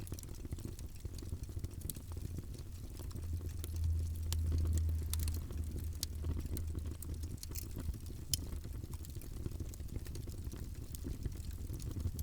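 Fireplace fire crackling: irregular sharp pops and snaps over a steady low rumble of the flames. The rumble swells for a couple of seconds about four seconds in.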